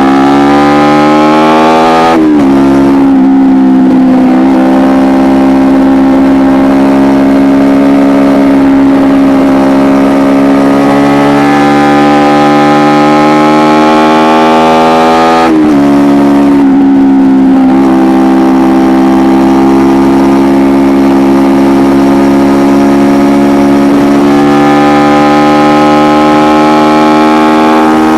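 Kawasaki Ninja 250R's parallel-twin engine through an Akrapovic exhaust, heard from on board while riding. The revs climb for the first two seconds and then drop sharply. They hold and creep upward until a second sharp drop about fifteen seconds in, then climb slowly again.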